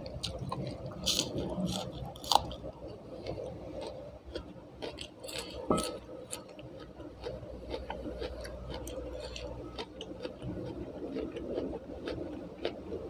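Close-up chewing while eating rice, tempe and raw spring onion with the fingers: a steady run of small wet mouth clicks, with a few sharper crunches, the loudest about two seconds in.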